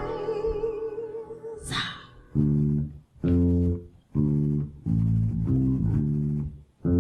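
Live band of bass, piano and drums, the singer's last held note fading out over the first second or so, then the band punching out the song's riff in short, loud, bass-heavy stabs about one a second with brief silent gaps between them.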